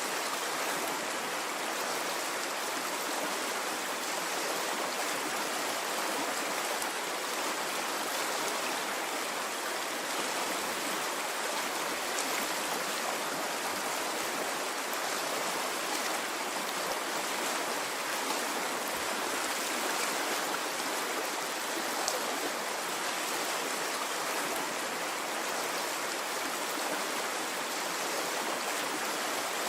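Stream of water flowing steadily, a constant rushing and burbling without surges, with a few faint drip-like ticks now and then.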